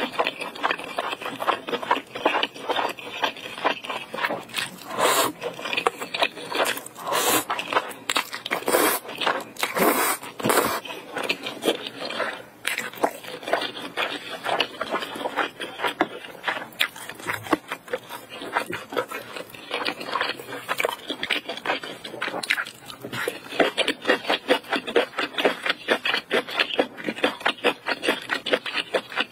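Close-miked eating: spicy noodles slurped in and chewed, with rapid wet mouth clicks and smacks.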